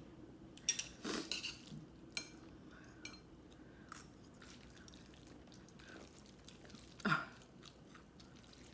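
Close-up eating sounds: chewing, with scattered short clicks and smacks, and one louder mouth sound about seven seconds in.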